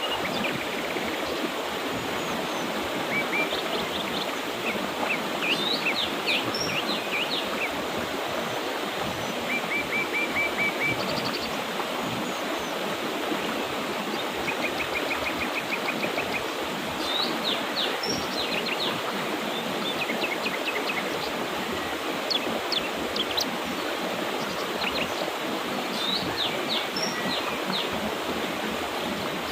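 Mountain river rushing steadily, with birds chirping over it throughout: short sweeping chirps and several quick trills.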